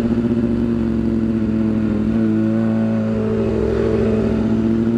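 Yamaha R6 sport bike's inline-four engine running at a steady pitch through a short aftermarket exhaust, with a slight waver in the note about three seconds in.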